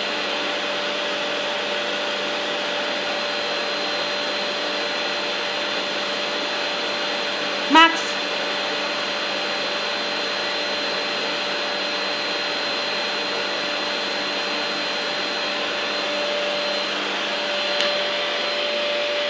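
Vacuum cleaner running steadily, a constant noise with a steady whine. A brief voice sound cuts in about eight seconds in.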